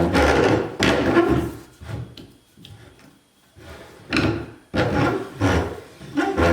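Rubbing and scraping of a new rubber band saw tire being worked around the wheel rim, in a series of short, irregular strokes with a brief pause in the middle.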